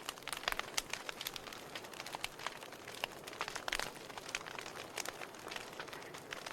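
Wood fire burning in a fireplace: logs crackling and popping irregularly over a soft steady hiss of flame.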